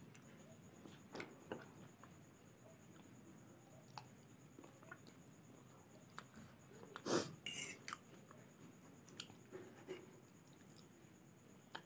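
Faint close-up chewing of instant noodles, with a few clicks of a fork against the plate; the loudest knock comes about seven seconds in.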